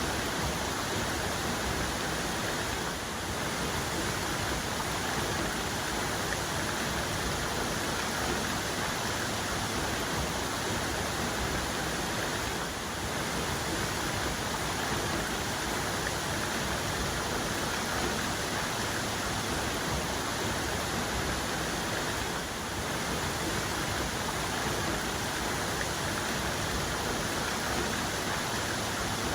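Waterfall cascade: a steady, dense rush of falling water.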